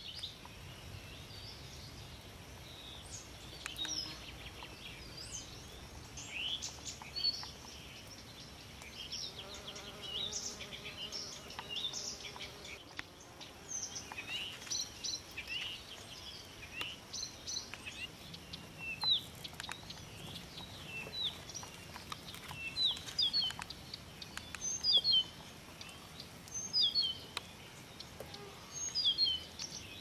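Songbirds singing: many short chirps and whistles, and in the last few seconds repeated phrases of quick falling notes. A faint low hum comes and goes about ten seconds in.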